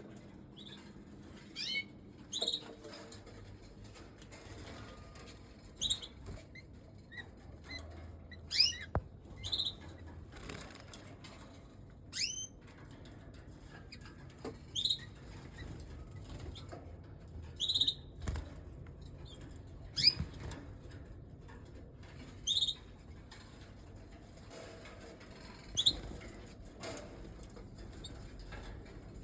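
Canaries in an aviary giving short, sharp chirping calls every second or two, with the flutter of wings.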